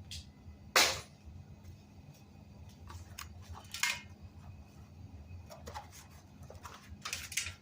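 A few sharp clicks and clatters of hard objects being handled over a steady low hum. The loudest click comes about a second in, another near the middle, and a quick cluster of clicks near the end.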